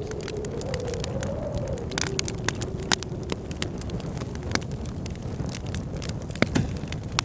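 Wood fire crackling, with frequent sharp pops over a steady low rumble. Blizzard wind howls in a low wavering tone that dips about two seconds in and fades out by the middle.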